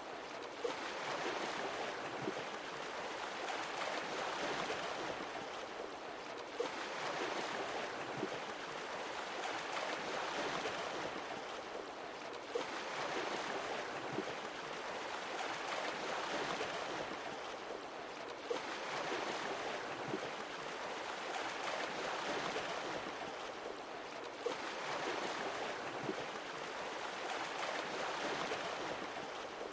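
Sea waves washing in and ebbing back, one swell about every six seconds, each with a faint click as it arrives.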